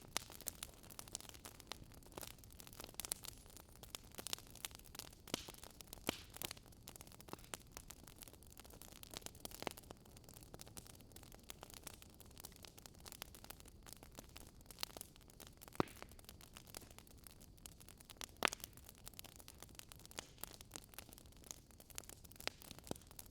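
Burning wood crackling, with irregular snaps and pops over a faint steady hiss.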